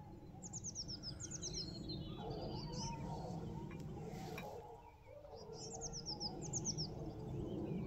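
Songbird singing outdoors: two short phrases of quick, high notes that each slide downward, the second about five seconds after the first, over a steady low background noise.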